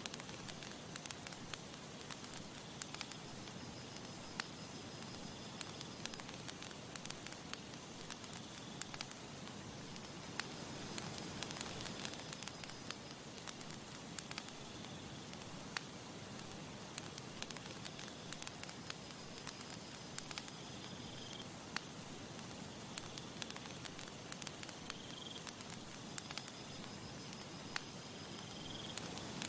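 Campfire crackling: frequent sharp pops and snaps of burning wood over a steady soft hiss. A faint, thin high tone comes and goes several times.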